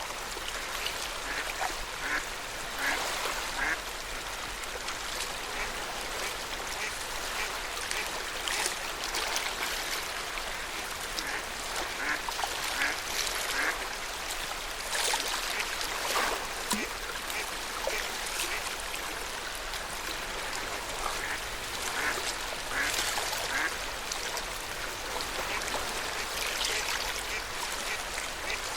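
Small waves lapping at a lakeshore, a steady splashing wash, with short bird calls scattered throughout.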